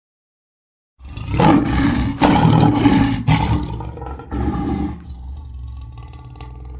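A lion roar sound effect. Silence for about a second, then a long, loud, rough roar in several surges, dropping to a quieter drawn-out rumble over the last couple of seconds.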